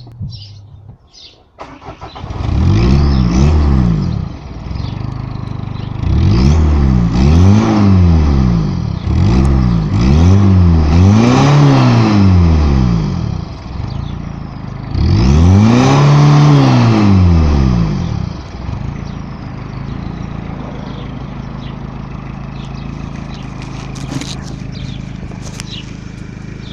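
Citroën ZX 1.9-litre four-cylinder turbodiesel warm-starting: it catches about a second and a half in. It is then revved up and back down five times toward maximum revs, and settles to a steady idle for the last several seconds.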